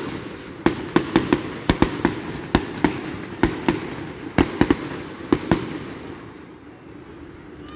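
Aerial fireworks bursting in quick succession: about eighteen sharp bangs over some five seconds, over a rumbling haze. The bangs stop about two-thirds of the way in, and the sound dies away.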